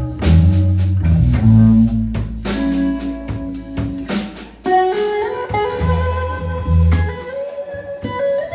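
Blues trio playing: guitar over bass and drum kit, with the guitar line climbing in steps from about halfway through.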